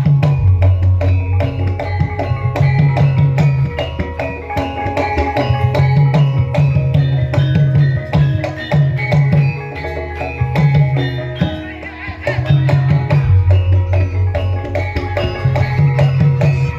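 Javanese gamelan ensemble playing lengger dance accompaniment: quick hand-drum strokes over ringing metallophone notes, with deep sustained low tones that come back every second or so.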